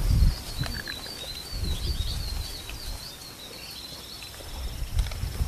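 A songbird singing a rapid series of high, wavering chirps, over a low rumble.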